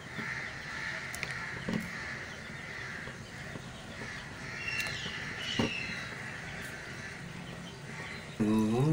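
Birds calling in the background, with a few short high calls about five seconds in and a brief, louder low tone just before the end.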